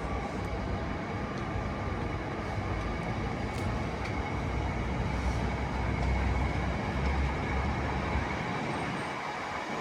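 A train running through the station: a steady rumble with a deep low-end drone that swells and then fades away about eight and a half seconds in.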